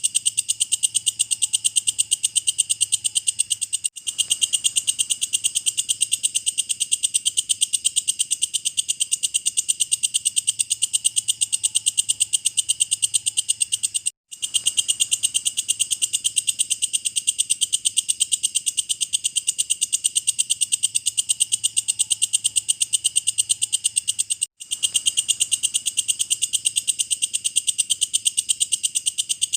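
Walang kecek bush cricket (katydid) stridulating: a fast, even train of high, buzzy chirps, about six a second. The song drops out for an instant roughly every ten seconds where the recording loops.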